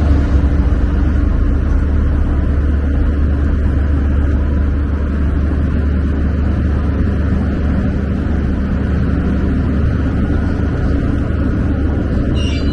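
Dredging work boat's engine running steadily, a continuous low rumble.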